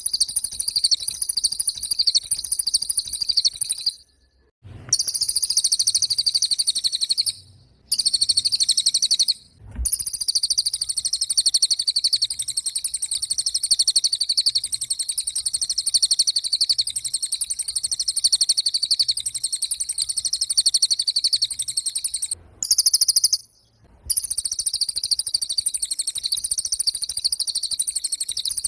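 Cililin bird singing without pause: long runs of a very fast, high-pitched trill, broken off briefly a few times.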